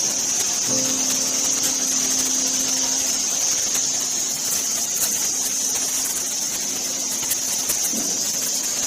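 Electric floor-cleaning machine running steadily, a strong high motor whine over a noisy rush, with a steady low hum from about a second in until near the end.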